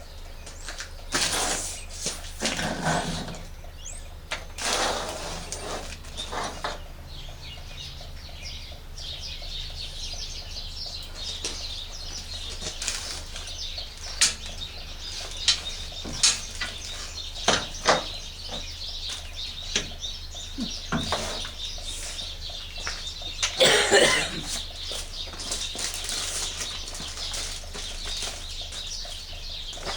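Hands handling packaging and parts: irregular rustling, with a string of sharp clicks and knocks in the middle and a loud rustle near the end.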